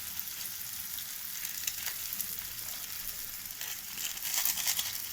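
Onion and tomato frying in oil in a pan, sizzling steadily with scattered crackles and ticks, a little louder about four seconds in, as the masala goes in.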